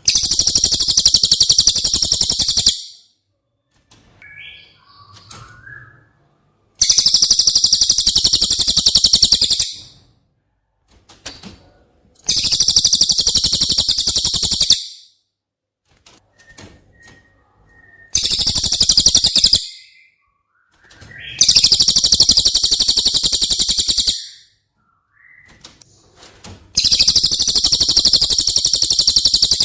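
Cililin song: a very high, fast rattling trill, delivered six times in bursts of two to three seconds with short pauses between them, and soft, lower chirps in the gaps.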